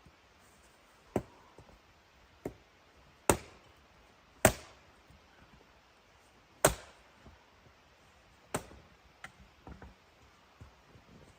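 A bladed tool chopping into wood: about seven sharp strikes at irregular intervals, each a second or two apart, the loudest three from about three to seven seconds in.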